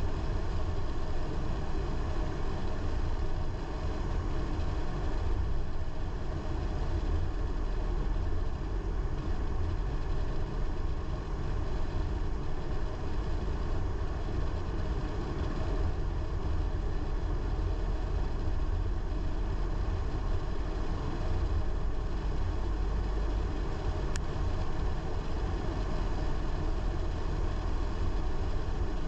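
A car on the move: a steady low rumble of engine and tyres on the road, unchanging throughout.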